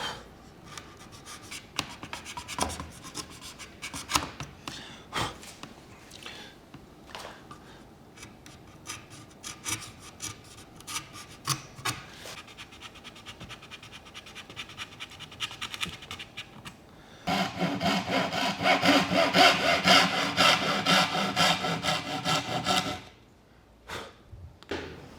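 A hand dovetail saw cutting Japanese cedar: light, scattered strokes at first, then from about two thirds of the way through a stretch of quick, even, louder sawing strokes, which stop suddenly about a second from the end.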